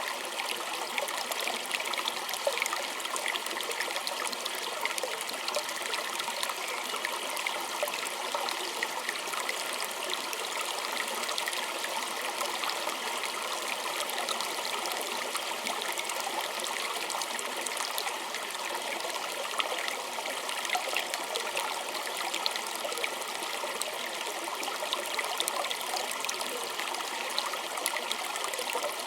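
Small stream trickling and splashing over stones, steady and unbroken, with many fine bright splashes.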